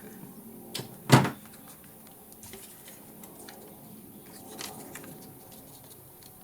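Craft materials handled on a tabletop: a sharp knock about a second in, then scattered light clicks and a soft rustle.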